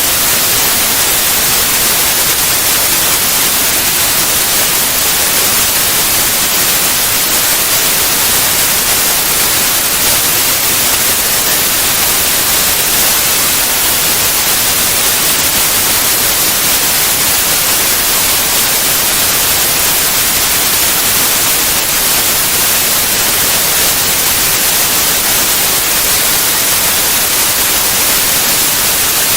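White noise: a steady, loud hiss spread evenly across all pitches, with no change or break.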